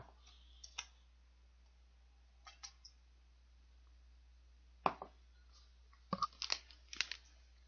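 Quiet chewing of a soft custard cake: scattered small mouth clicks and smacks, with a cluster of them about six seconds in.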